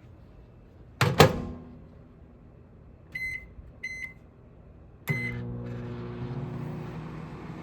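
Haier HMC720BEWW countertop microwave being started: a sharp double clack about a second in, two short keypad beeps, then a third beep as the oven switches on and runs with a steady hum.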